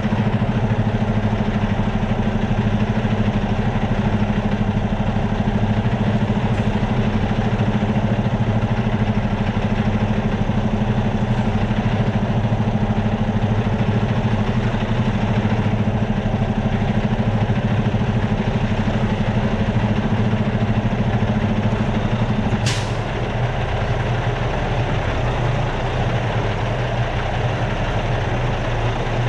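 Semi truck's diesel engine idling steadily. About three-quarters of the way through there is one short, sharp sound, after which the engine note settles a little lower.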